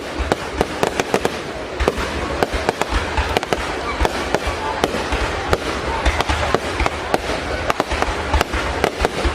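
Fireworks going off in quick succession: many sharp bangs, several a second at irregular spacing, over a continuous crackle.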